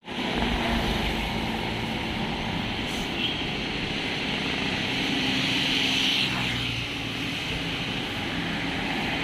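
Steady traffic noise: vehicle engines running with road noise.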